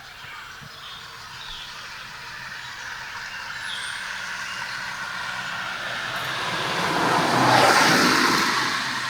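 A motor vehicle driving past, its rush of engine and tyre noise growing steadily louder to a peak near the end and then starting to fade.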